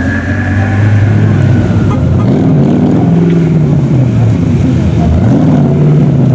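A high-performance car engine revving again and again, its pitch rising and falling several times. A high whine fades out about two seconds in.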